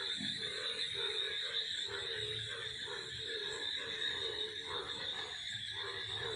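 A chorus of frogs croaking in a quick, repeated rhythm of about three croaks a second, over the steady high buzz of cicadas.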